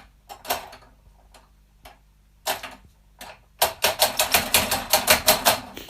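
Scattered sharp clicks and taps, then a quick, even run of taps at about six a second for roughly two seconds near the end.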